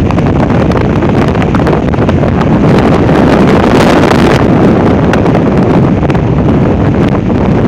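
Strong, gusting non-thunderstorm wind blasting the microphone with a loud, continuous rumbling rush. A stronger gust swells up about three seconds in and eases off again a second or so later.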